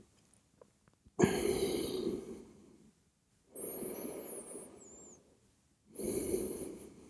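A person breathing slowly and audibly, close to the microphone: three long breaths, each about a second, a couple of seconds apart, the first with a sharp start.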